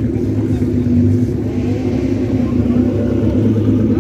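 A car engine idling steadily, a low, even note that neither rises nor falls.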